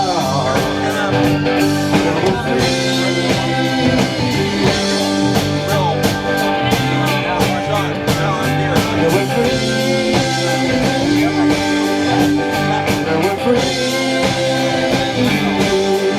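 Live rock band playing an instrumental stretch of a song: guitar over bass and a drum kit keeping a steady beat. The singer ends a sung line about a second and a half in.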